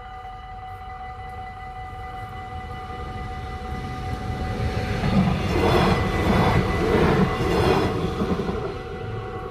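A Stadler GTW diesel multiple unit passes over a level crossing. Its engine and wheels build up, are loudest for a few seconds past the middle, then fade. The crossing's electronic warning bells ring steadily throughout.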